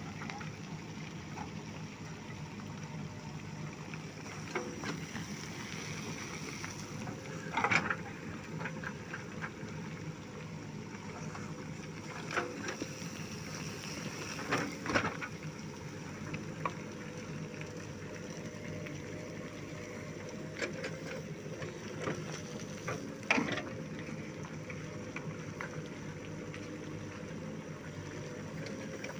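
JCB backhoe loader's diesel engine idling steadily, with a handful of sharp knocks of stones dropped into its steel bucket, the loudest about a quarter, half and three quarters of the way through.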